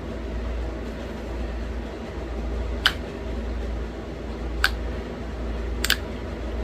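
Three sharp clicks of flakes snapping off a thin stone flake under pressure flaking, about 1.5 s apart, the last a quick double click. A steady low hum runs underneath.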